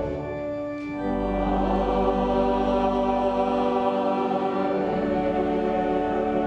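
Choir singing a hymn with organ accompaniment, in long held chords that change about a second in and again near five seconds in.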